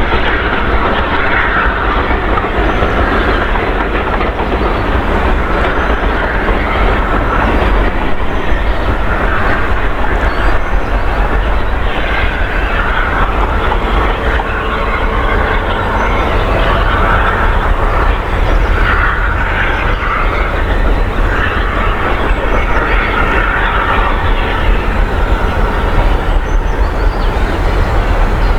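Steam-hauled train running past, its carriage wheels clattering over the rail joints in a loud, continuous rumble.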